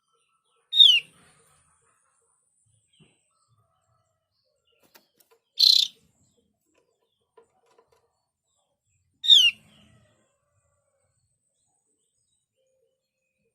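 Javan grey-throated white-eye (opior jawa) calling: two short, downward-slurred notes about eight and a half seconds apart, with a short harsh, rasping burst midway between them.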